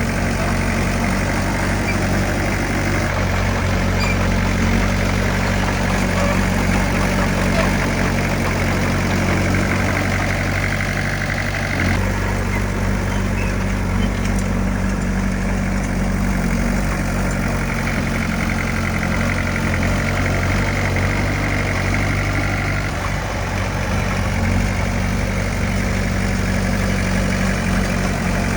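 Heavy diesel engine of earthmoving machinery running steadily, with a deep, even drone.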